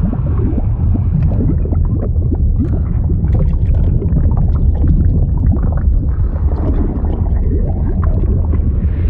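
Liquid sound effect: constant bubbling and gurgling over a steady deep rumble.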